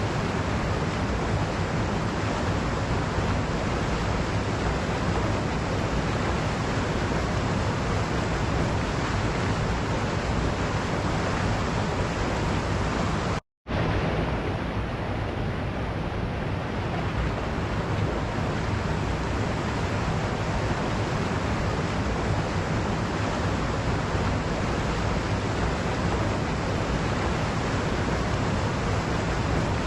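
Waterfall: a steady, dense rush of falling water, with no change in rhythm. It drops out completely for a split second about halfway through, then resumes as before.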